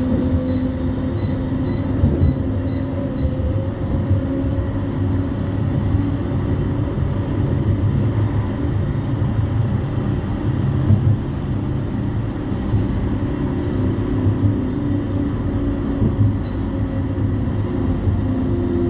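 Heard from inside a CAF Urbos 3 tram on the move: a steady rumble from the wheels on the rails, with a low hum over it.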